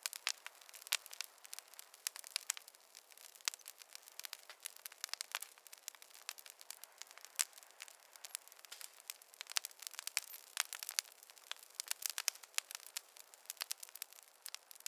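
Campfire crackling: irregular sharp pops and snaps from burning wood over a soft hiss.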